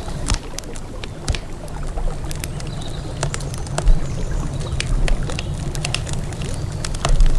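Wood campfire crackling, with frequent irregular sharp pops and snaps, a few louder ones, over a steady low rumble.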